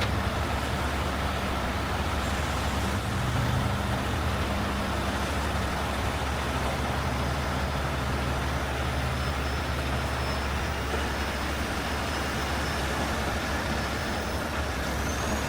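Heavy-duty tow truck's diesel engine running steadily under load as it winches the overturned trailer upright, with a slight swell about three seconds in, over a steady hiss.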